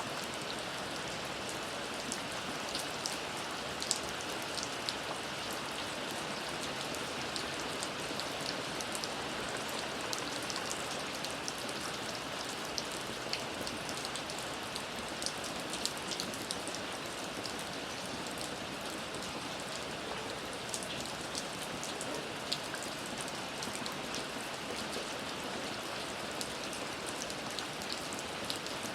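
Steady rain falling, a constant hiss with many sharp drop ticks scattered through it.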